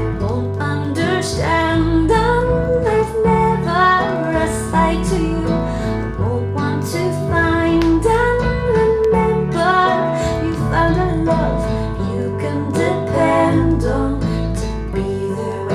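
Recorded song played back through a 6C21 single-ended tube amplifier: a guitar-led instrumental passage over a steady bass line, with some sung or sliding melody lines.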